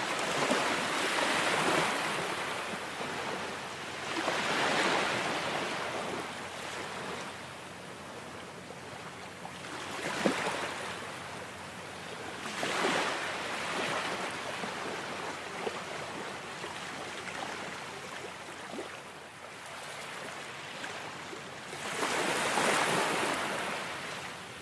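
Ocean surf: waves breaking and washing in, the hiss swelling and falling back about five times at uneven intervals of a few seconds, with a strong surge near the end.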